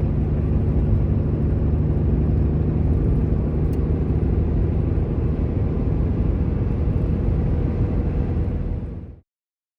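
Pickup truck driving on a highway: steady engine and road rumble that cuts off abruptly about nine seconds in.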